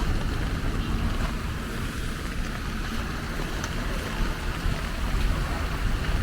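Steady outdoor noise: a low rumble like wind buffeting the microphone, over an even hiss, with a few faint ticks.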